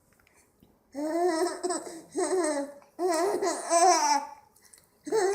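A small child laughing and babbling in several high-pitched bursts, the first about a second in and the last near the end.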